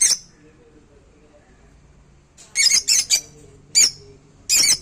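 Angry pet parrot squawking: a series of short, harsh screeches, one at the start, then a quick cluster of three about halfway through, followed by two more.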